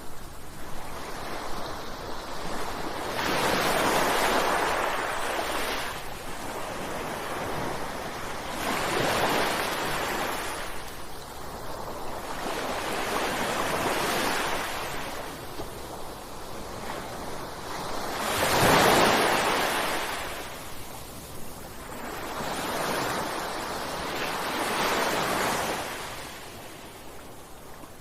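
Ocean waves breaking on a shore, one surge every four to five seconds, the loudest about two-thirds of the way through.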